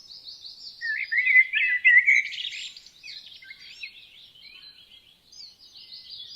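Several songbirds singing and chirping at once, with a loud run of quick warbled notes about a second in, then fainter overlapping chirps.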